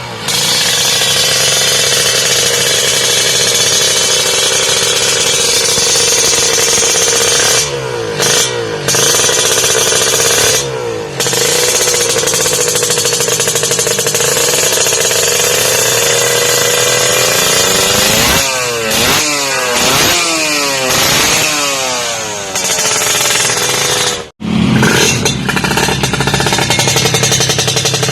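Kawasaki Ninja 150 two-stroke engine running through a galvanised WRS aftermarket exhaust. It holds a steady high idle with a couple of throttle blips, then a quick run of several revs in a row past the middle. The sound cuts off abruptly for an instant near the end and then resumes.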